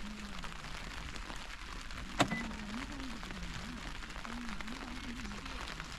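Steady rain falling, with a single sharp tap about two seconds in. A faint low sound wavers up and down in pitch underneath.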